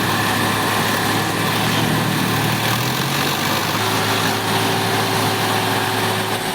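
A heavy machine's diesel engine running steadily with a deep, even hum. A second, higher steady tone joins about four seconds in.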